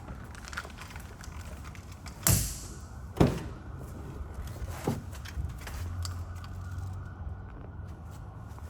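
Two loud thumps about a second apart, then a softer one, over a low steady rumble.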